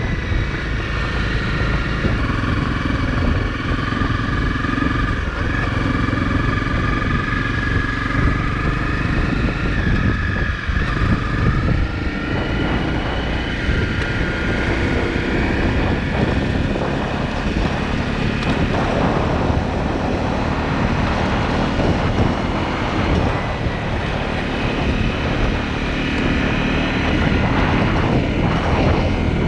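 Motorcycle engine running on the move, its pitch shifting with speed and gears, with wind rush over the helmet microphone.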